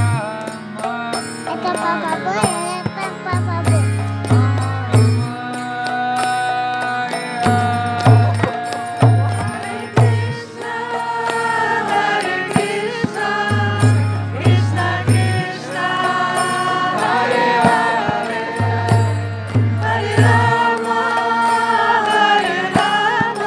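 Devotional kirtan: voices chanting a mantra in song over instrumental accompaniment, with frequent sharp percussive strokes and a repeating low bass pattern.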